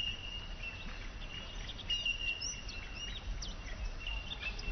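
Birds chirping, short high calls with a thin steady high trill running through them, over a low steady rumble.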